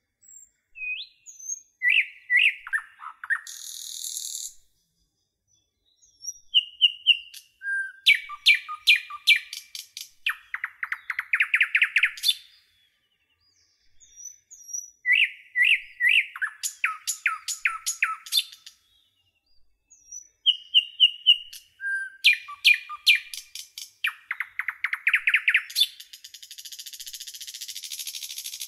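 A songbird singing phrases of quick notes and trills, in bursts a few seconds apart. A steady hiss comes in over the last few seconds.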